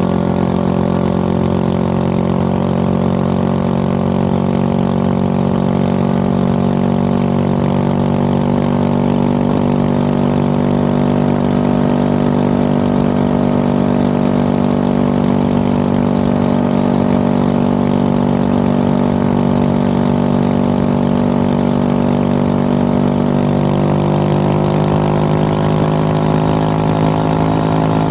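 Motorcycle engine running at a steady cruising speed, its note holding even and rising slightly near the end, with wind and road noise underneath.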